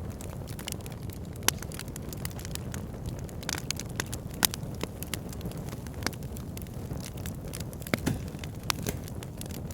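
Backyard fire pit burning, with frequent sharp crackles and pops over a steady low rumble of flames; a few pops stand out louder, about one and a half, four and a half and eight seconds in.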